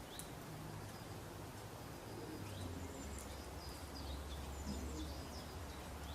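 Faint, scattered bird chirps over a steady low hum and hiss.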